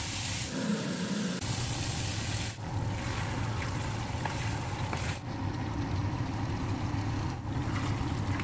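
Pork belly, onions and tomatoes sizzling as they fry in a wok, over a steady low hum. The sound changes abruptly every two to three seconds as one cooking shot cuts to the next.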